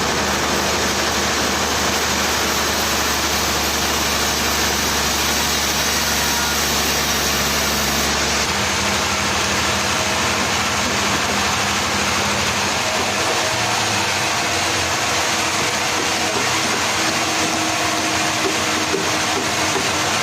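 Engine-driven sawmill machinery running steadily; its low hum changes and drops away about eight and a half seconds in.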